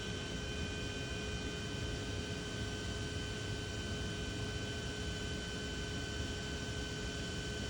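Steady machine hum and hiss with several constant high whining tones, unchanging throughout.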